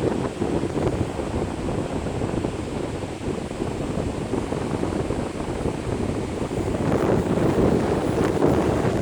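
Loud wind buffeting the microphone, a steady rumbling roar that swells in gusts, with ocean surf.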